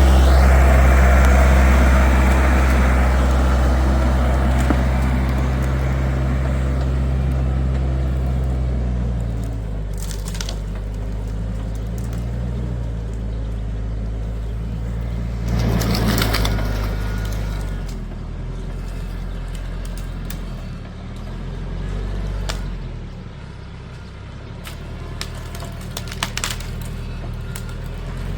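A large engine running at low speed with a steady low hum; its pitch shifts a couple of times. A brief rushing noise rises and falls about halfway through.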